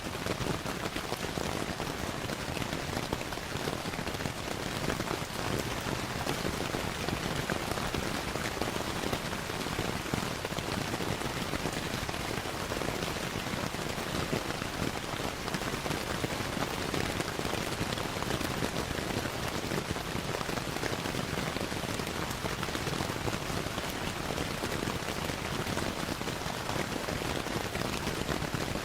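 Steady rain falling in an even hiss, dense with fine drop patter, mixed with the small crackles of a log fire.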